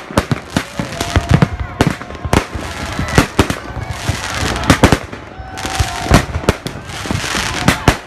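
Fireworks bursting overhead in a rapid, irregular string of loud bangs over continuous crackling, with crowd voices underneath.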